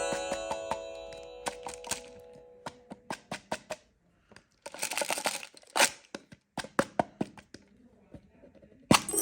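Hard candy being cut with a knife: a run of sharp, crisp cracks and taps, with a denser stretch of crunching around the middle. A chime sound effect dies away over the first second or so, and another chime strikes near the end.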